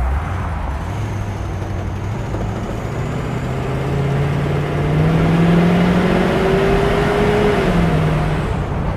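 1973 Cadillac Eldorado's 500 cubic-inch V8 pulling under acceleration, its note climbing steadily and growing louder, then dropping sharply near the end, with wind rushing past the open top. The engine pulls with more power now that the sticking choke has been dealt with.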